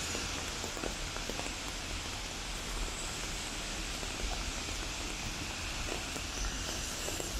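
Steady hiss of rain falling on a wet pavement, with faint irregular footstep ticks and a low rumble underneath.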